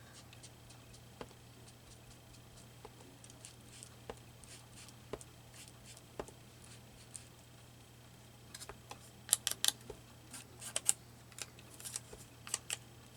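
Faint handling of paper and small craft tools on a work surface: scattered light clicks and taps, coming in a quicker run of sharper clicks from about nine seconds in, over a low steady hum.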